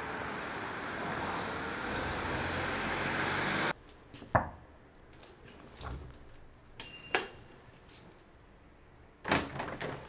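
Steady street traffic noise that cuts off abruptly about four seconds in. Quiet indoor room tone follows, with a sharp click, a few light knocks, and a louder clatter near the end as a door is opened.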